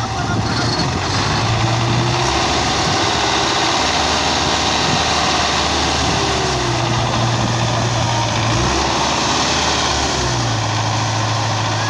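Tractor diesel engine running under load, its pitch rising and falling several times as the revs change.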